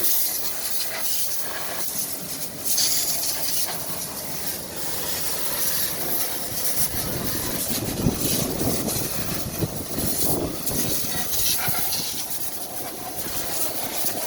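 High-pressure water spray hissing against a vehicle during washing, swelling and fading as the jet moves.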